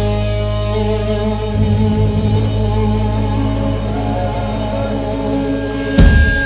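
A rock band playing live: held guitar chords over a sustained low bass note, with sharp drum hits coming in near the end.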